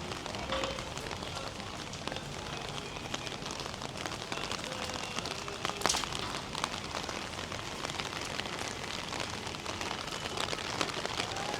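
Steady rain falling on hard surfaces, with many small dripping clicks and one sharper knock about halfway through.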